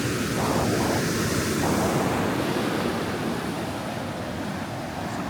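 Ocean surf breaking and washing up the beach: a steady rushing that swells about a second or two in and then eases off.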